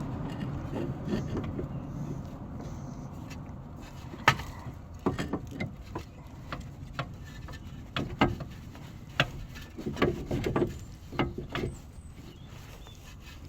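Irregular light clicks and knocks, as of metal tools and parts being handled, after a vehicle sound fades out at the start.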